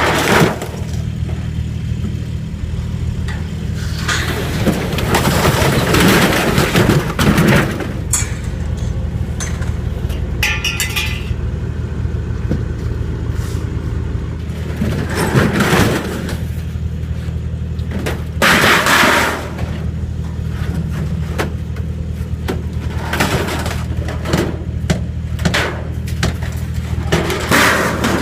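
A vehicle engine running steadily, with noisy rattling and clattering bursts coming and going over it.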